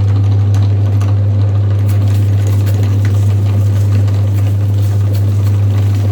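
Electric meat grinder motor running with a steady low hum.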